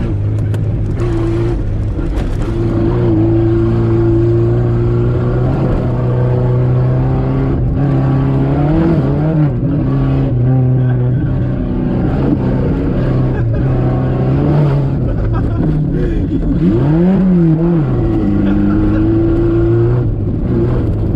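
Old Dacia's engine and exhaust running steadily while driving on a rough road, with the revs dipping and climbing again a couple of times, most clearly about three quarters of the way in, as at a gear change.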